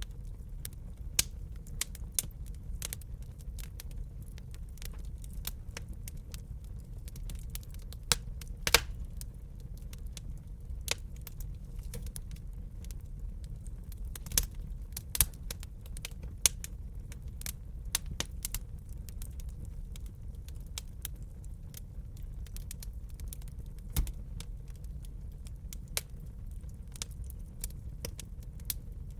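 Wood fire crackling in a fireplace: irregular sharp pops and snaps, a few louder cracks among them, over a steady low rumble of the flames.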